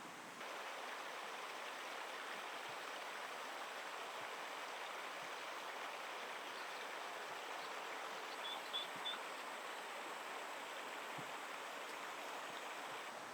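Steady rush of flowing stream water. A little past the middle come three short, high chirps in quick succession.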